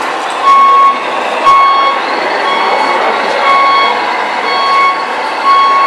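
Reversing beeper of a radio-controlled model truck, sounding one short beep about every second, six times, over a steady mechanical hiss from the model's drive.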